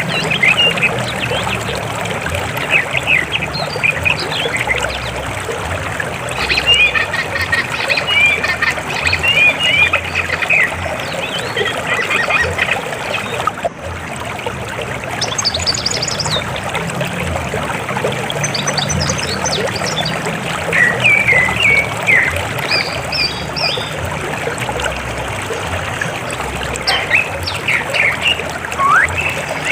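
River water flowing in a steady rush, with frequent short chirping calls of birds over it.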